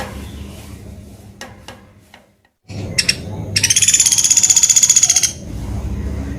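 Woodpecker (pelatuk beras) giving a fast, even rattling trill of high notes, about fifteen a second, lasting nearly two seconds from about halfway in. A few short clicks and a brief drop-out come before it.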